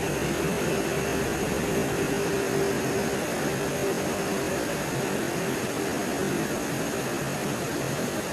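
Steady night-time forest ambience: an even hiss with a faint, steady high-pitched tone above it and a faint low hum that comes and goes.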